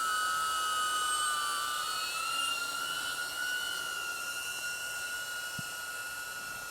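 DJI Avata drone's propellers whining steadily in flight, the pitch wavering slightly and the sound slowly growing fainter.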